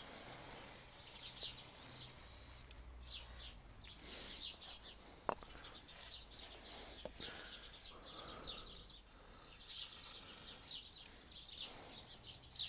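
Small birds chirping repeatedly in short, falling notes over faint outdoor background noise, with one sharp click about five seconds in.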